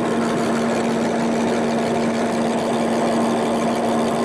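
Milling machine running with a steady hum, cutting the dovetails of a lathe cross slide with a dovetail cutter.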